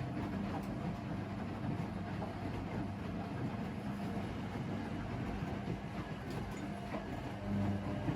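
Washing machine running: a steady motor hum over the rumble of the turning drum, with a few faint clicks. The hum swells briefly near the end.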